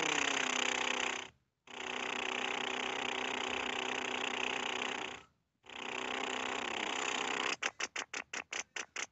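Airplane sound effect: a steady jet-engine hiss with faint droning tones, cut off twice by short gaps. Near the end it is chopped into a quick run of about eight stuttering pulses.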